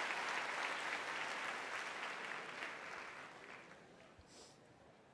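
Audience applauding, dying away over the first three to four seconds.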